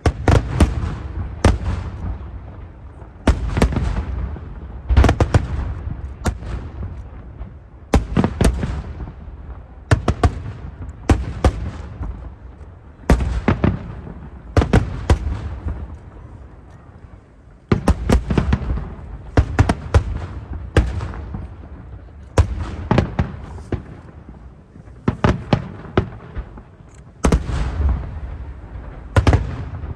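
Aerial fireworks shells bursting one after another, a loud bang every one to two seconds, often several in quick succession. Each bang trails off in a deep rumble.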